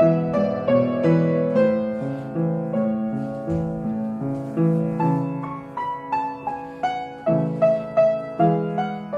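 Piano playing a slow, even ballet-class accompaniment: a melody of struck notes over held bass chords, several notes a second.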